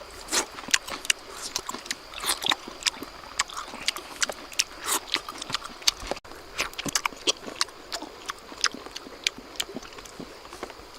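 Close-up eating sounds: wet chewing and lip smacking in irregular short clicks, with a faint steady high tone behind them.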